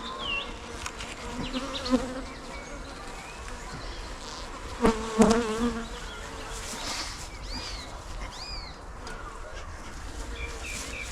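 Honey bees buzzing steadily around an open hive during an inspection, with a couple of sharp knocks about five seconds in.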